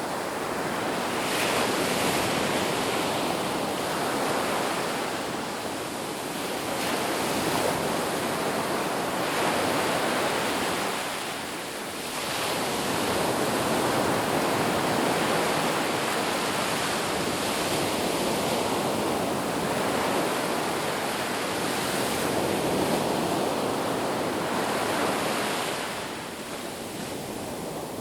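Ocean surf on a beach: a continuous rush of breaking and washing waves that swells and eases every several seconds.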